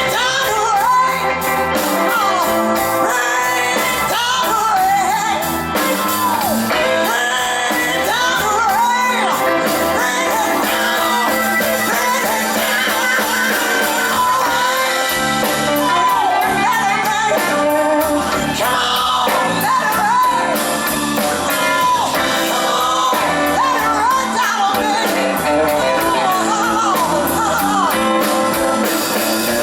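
A blues band playing live, with a woman singing in a strong, shouting voice over it.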